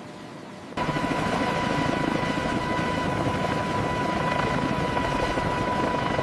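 Helicopter rotor and turbine engine noise cutting in abruptly under a second in, then running loud and steady with a high whine on top.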